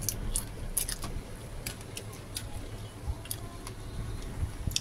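Close-up eating sounds: about ten irregular sharp, wet clicks from chewing noodles, over a low steady rumble.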